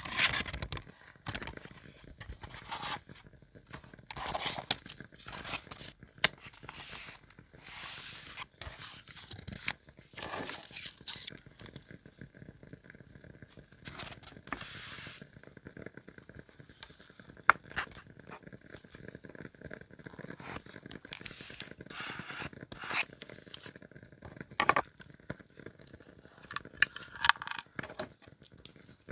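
Paper being handled during journaling: irregular rustles, scrapes and tearing sounds, with sharp clicks here and there.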